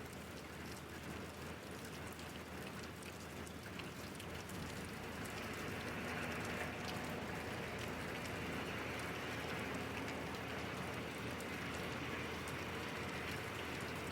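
Steady rain falling, with many small drop ticks on a hard surface, growing somewhat heavier a few seconds in.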